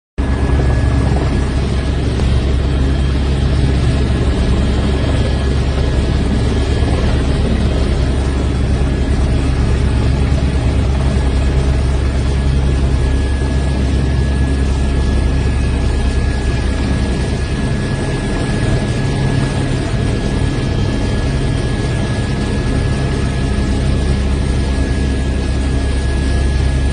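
Helicopter running steadily, a loud continuous rotor and engine roar with a thin steady whine above it.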